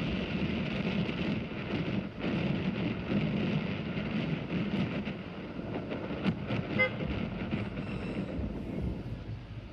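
Vehicle engine and road noise with wind on the microphone, steady throughout, and one short high beep about seven seconds in.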